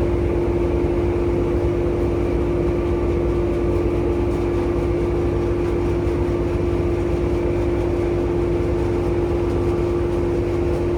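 Automatic car wash machinery running: a steady, unchanging mechanical hum with one constant tone over a dense rumble.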